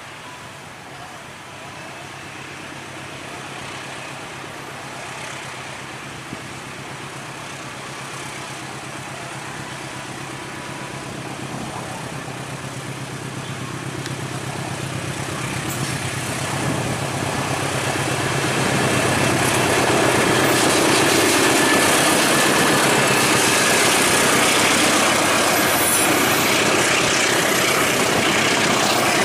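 Diesel-electric locomotive hauling a passenger train: its engine hums steadily as it approaches and grows louder. From about two-thirds of the way in, the passing carriages give a loud, steady rush of wheels on the rails.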